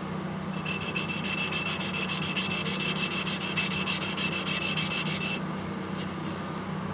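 A yanagiba's bevel (kiriha) grinding on a wet whetstone in quick, even back-and-forth strokes, several a second, starting about half a second in and stopping about five and a half seconds in. The strokes are resetting the kiriha: the bevel is being ground flat to remove the micro bevel.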